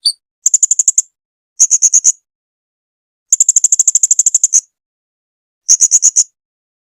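A serindit (hanging parrot) singing in high, sharp, rapid trills: four quick phrases of shrill chirps, the longest a little over a second, with short pauses between them.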